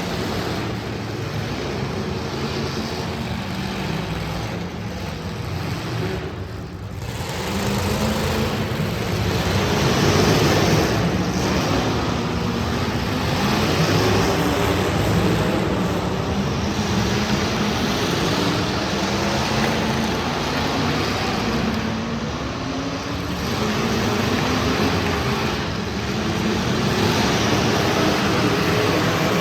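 Several demolition derby cars' engines running hard and revving in a loud, continuous mix that swells and dips.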